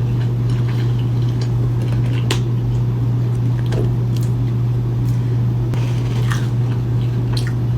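Close-miked chewing and biting of food, with scattered wet mouth clicks and squishes over a steady low hum.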